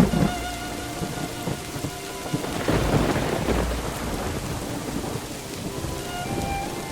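Steady rain with deep rolls of thunder, one near the start and a longer one about three seconds in, over faint sustained musical tones.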